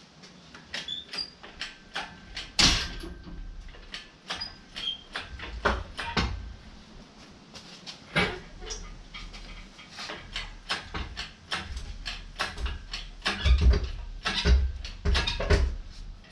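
Irregular metal clanks and knocks with a few short squeaks, and heavier thumps near the end, as a Subaru EJ25 engine hanging on a chain from an engine crane is lifted and worked loose from its mounts.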